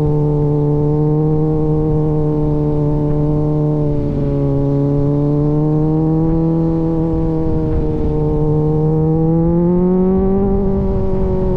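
Kawasaki Z900's inline-four engine through an aftermarket AR exhaust, running at fairly steady revs under way. The pitch sags slightly about four seconds in, then climbs as the revs rise near the end.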